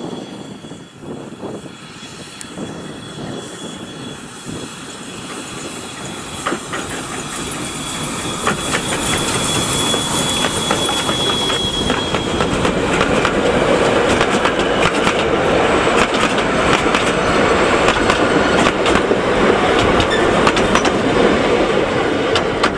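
Steam-hauled passenger train approaching and passing close by. Its wheels click over the rail joints, louder and busier as the carriages roll past in the second half. A high steady squeal runs through the first half and stops abruptly about halfway through.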